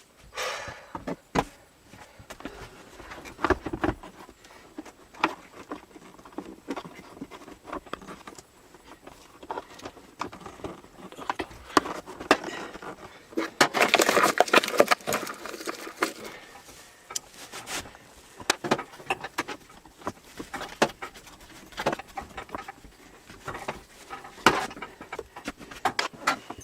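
Irregular clicks, knocks and rattles of objects being handled, with a denser stretch of clattering about halfway through.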